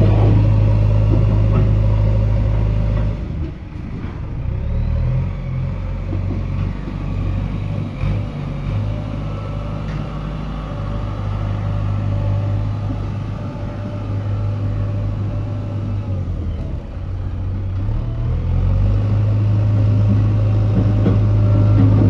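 Diesel engine of a JCB 3DX backhoe loader running with a loud, steady low hum. About three seconds in the hum drops and wavers unevenly, then steadies again. It wavers once more for a few seconds later on before settling back to the steady hum.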